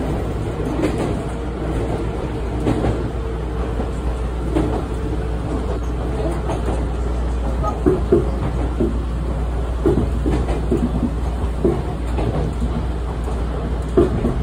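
Iga Railway electric train running along the line, heard from inside the front car: a steady low hum and rumble, with the clack of wheels passing over rail joints coming in quick groups from about halfway on.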